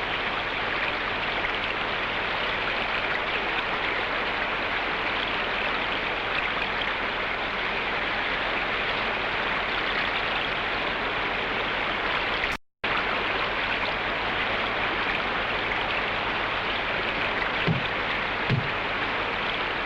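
Steady rushing of white water in a river rapid. The sound cuts out completely for a split second about two-thirds of the way through, and there are two faint short knocks near the end.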